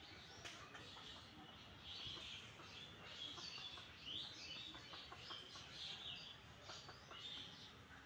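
Birds chirping faintly: many short, high calls following one another closely, with a few soft clicks among them.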